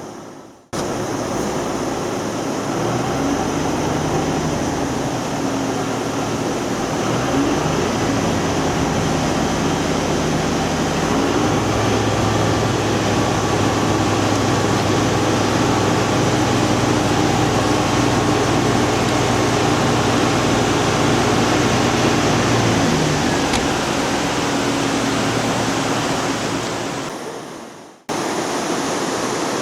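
Steady rush of a waterfall, with a low steady hum under it through most of the middle. The sound drops out briefly near the start and again near the end, where the clips change.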